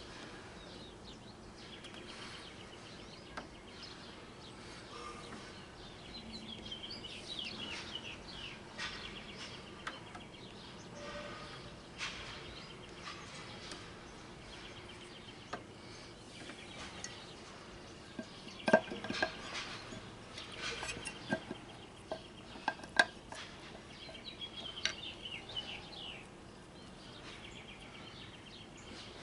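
Light metallic clinks and knocks of tools and engine parts being handled, the sharpest about 19 and 23 seconds in, with birds chirping in the background.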